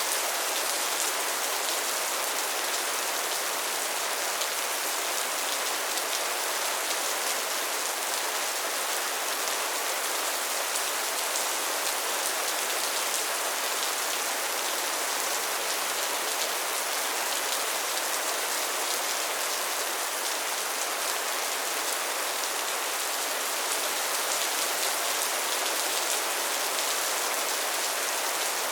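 Steady rain falling: an even hiss with the fine patter of many drops, holding level throughout, with no thunder.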